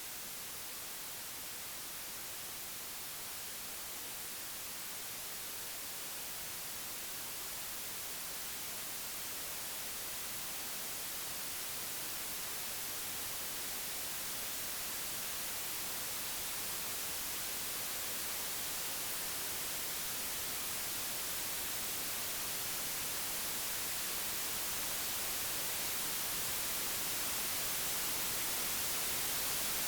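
Computer-generated white noise: an even, featureless hiss with no tones, slowly and steadily growing louder.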